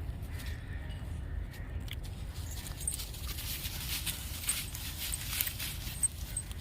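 Sounds from a dog over a steady low rumble, with scattered clicks and one sharp knock near the end.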